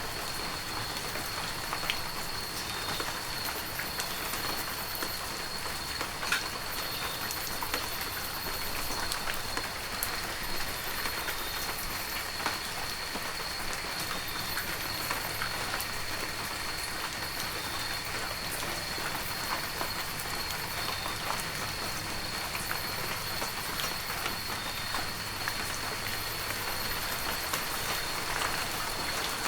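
Heavy rain falling steadily, with many sharp individual drop hits close by and a steady thin high tone underneath.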